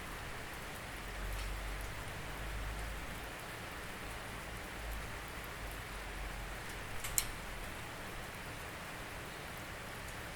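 Steady rain falling, an even hiss with scattered drops ticking. One sharper, louder tick about seven seconds in.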